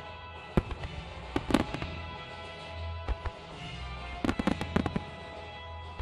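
Fireworks shells bursting in groups of sharp bangs and crackles, over music: a few cracks about half a second in, more around a second and a half and three seconds, and a denser cluster around four and a half seconds.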